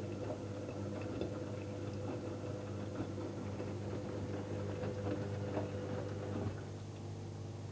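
Electrolux washing machine running a wash: a steady motor hum with light ticking and swishing from the turning drum and wet laundry. About six and a half seconds in the drum stops turning and the swishing ends, leaving a lower steady hum.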